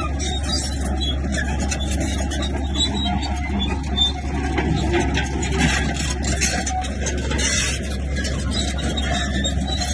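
Komatsu bulldozer's diesel engine running steadily, with scattered clanks and squeaks from the tracks.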